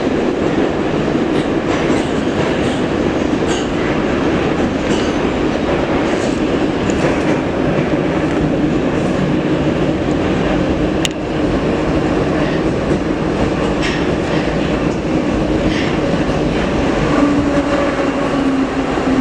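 Metro train running through a tunnel, heard from inside the car: a loud, steady rumble with wheel clicks over the rail joints, faint motor whine, and one sharp click about halfway through.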